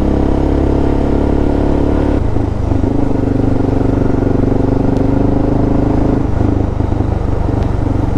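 Suzuki DR650's single-cylinder engine running steadily while riding, its note changing about two seconds in and again about six seconds in.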